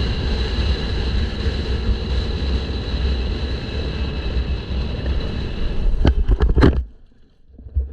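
Kawasaki KLX 150 single-cylinder dirt bike engine running steadily, with wind buffeting the microphone. A few sharp knocks come about six seconds in, and then the sound cuts off suddenly.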